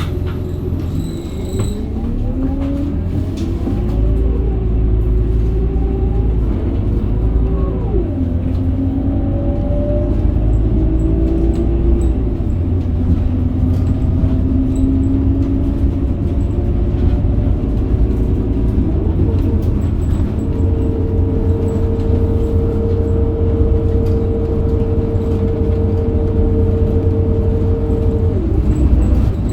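Scania DC9 diesel engine and ZF Ecomat automatic gearbox of a 2008 Scania K270UB bus accelerating: a low rumble with a whine that climbs in pitch and drops back at upshifts about 8 and 12 seconds in. The whine then holds steady at cruising speed and falls away near the end.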